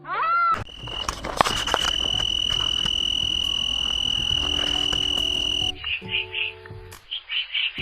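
A short arching call, then a loud, steady high-pitched trill lasting about five seconds that breaks into rapid pulsed chirps near the end, over soft background music.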